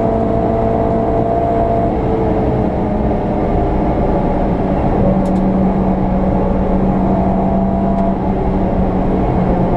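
VW Polo 86C's engine running hard at lap speed, with road and tyre noise beneath it. Its note shifts about two seconds in, and a steady lower note holds from about halfway through.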